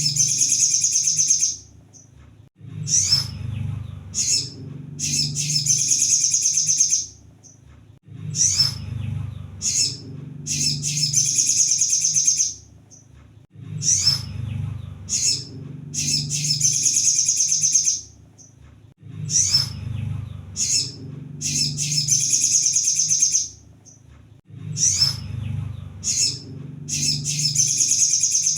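Crimson sunbird (kolibri sogon) song played on a loop: a few short chips, then a rapid high-pitched trill about two seconds long, repeating about every five and a half seconds. A low steady hum runs beneath.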